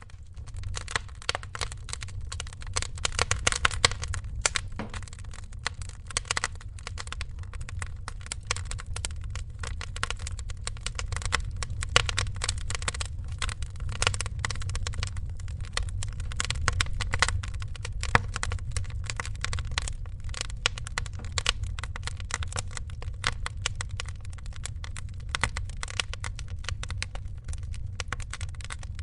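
Wood fire crackling steadily, a dense run of irregular snaps with a few louder pops, over a low rumble of flames.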